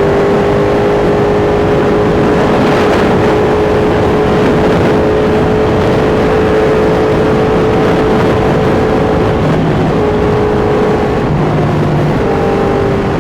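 Sport motorcycle engine cruising at highway speed, its note holding a steady pitch that shifts slightly in the last few seconds, under heavy wind rush.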